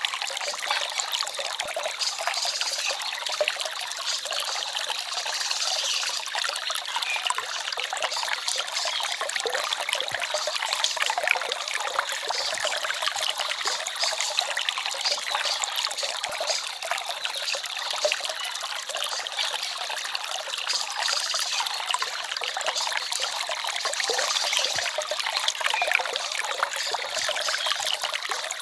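Small forest stream trickling and babbling steadily, a light, continuous rush of water with almost no deep rumble.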